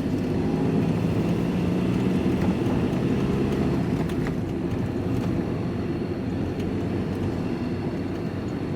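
Steady engine and road noise inside the cab of a moving van.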